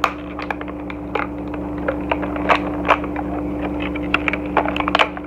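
Cardboard packaging and plastic crackling, scraping and clicking in quick irregular snaps as a toy figure's arm is pried loose from its cardboard backing.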